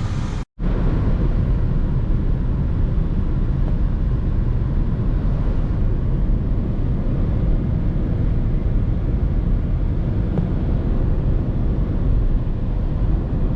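Steady road and wind noise of a car being driven, heard from inside, loud and even with most of its weight in the low end. It cuts in after a brief gap near the start.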